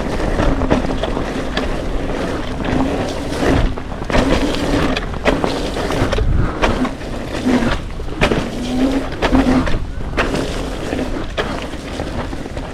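Wind buffeting the microphone and tyre rumble while riding a wet trail, with frequent small knocks and jolts from bumps. A steady low hum comes and goes.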